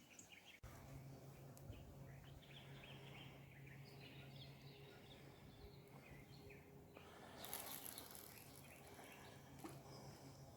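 Faint outdoor ambience with scattered small bird chirps, a low steady hum underneath, and a brief hiss about seven seconds in.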